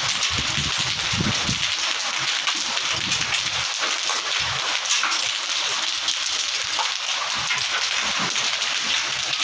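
Heavy rain with hail pelting a paved rooftop terrace, a steady dense hiss flecked with small ticks of stones striking the tiles.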